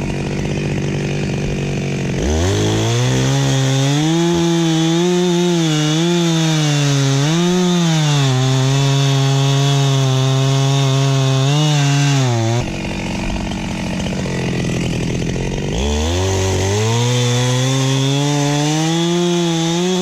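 Two-stroke chainsaw idling, then revved up about two seconds in and held at full throttle for about ten seconds, its pitch dipping and recovering as it cuts through wood. It drops back to idle, then revs up again for the last few seconds.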